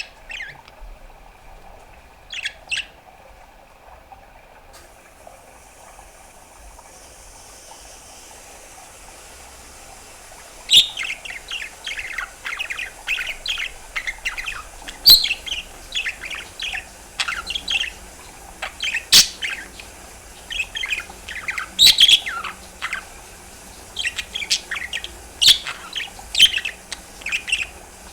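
Pet budgerigar chirping: two short calls at the start, then from about ten seconds in a continuous run of rapid warbling chatter, broken by sharp, loud clicks every few seconds.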